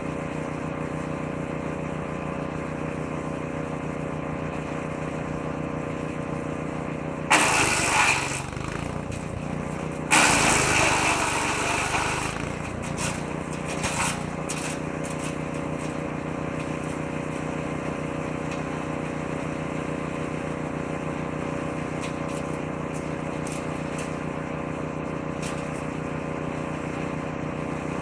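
6.5 horsepower woodchipper engine running steadily. About seven seconds in and again about ten seconds in, the shredder drum chews through fed branches with loud, rough bursts, loading the engine, and a few shorter crunches follow.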